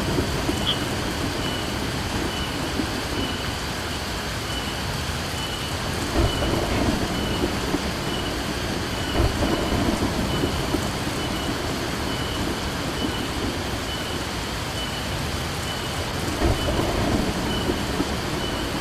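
Heavy rain falling steadily, with low rumbles of thunder swelling a few times.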